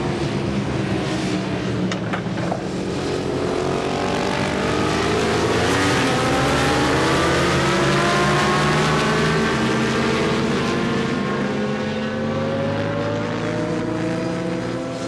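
Racing engine on the track accelerating, its pitch rising slowly over several seconds and then levelling off as the sound eases slightly.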